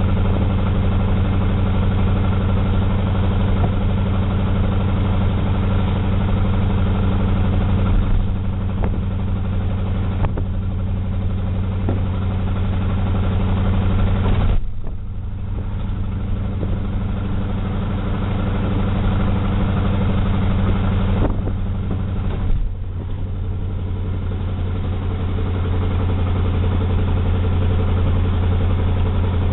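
Car engine running steadily on the road, heard from inside the cabin. Its note drops off twice, about halfway through and again about two-thirds through, then builds back up.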